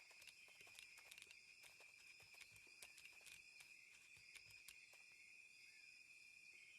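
Near silence: faint outdoor nature ambience, a steady high drone with soft scattered clicks that thin out after about five seconds.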